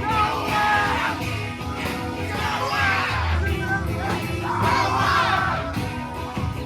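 A live band performing, with a vocalist shouting or singing over the music and the crowd's voices mixed in.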